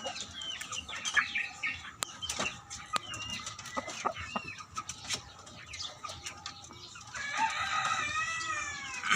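Rumpless chickens clucking, with many short calls through the first few seconds. Near the end comes one longer, drawn-out falling call.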